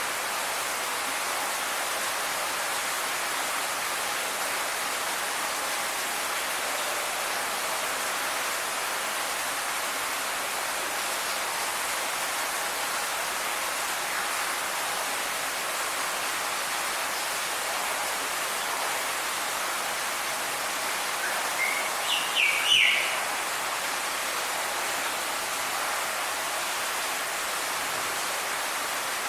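Steady rushing hiss like running water, with a short burst of three or four quick bird calls about three-quarters of the way through.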